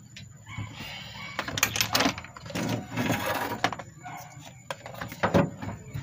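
Metal hand tools clicking and clinking on an engine while a spark plug is being taken out: irregular sharp clicks, with a denser rattling stretch about two to three and a half seconds in.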